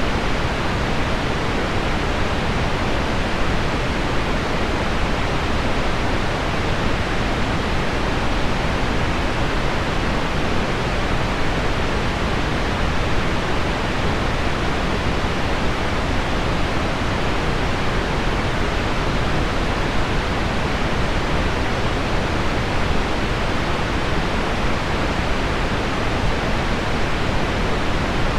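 Heavy rain on window glass mixed with low pink noise, heard as a steady, even hiss with no separate drops or changes standing out.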